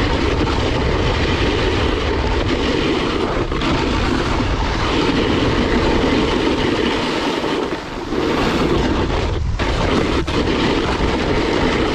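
Loud, steady rushing noise of riding a snowboard down a steep slope: wind buffeting the microphone and the board sliding over snow. There is a brief lull about eight seconds in.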